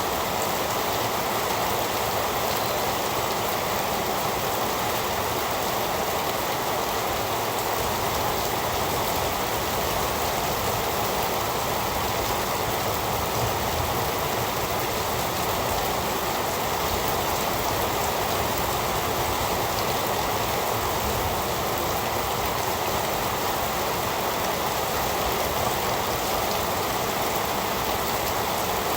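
Heavy rain falling steadily, an even, unbroken hiss with no thunder or single drops standing out.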